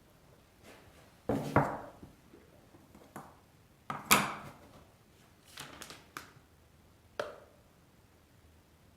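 Objects being handled and set down, giving several separate knocks and clatters. The loudest comes about four seconds in, with smaller ones before and after.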